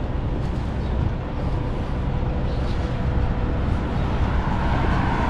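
Steady road traffic noise with a low rumble, with a vehicle passing close by near the end.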